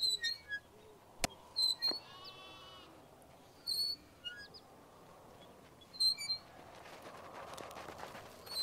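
Outdoor ambience of small birds chirping in short, scattered high calls. A sharp click comes just over a second in, and a longer, harsher animal call comes about two seconds in. A soft rushing noise swells near the end.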